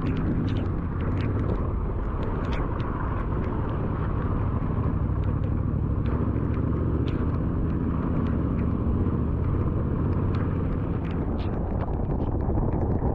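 Adventure motorcycle riding on a dirt road, the engine running steadily under wind and road noise, with scattered sharp ticks throughout.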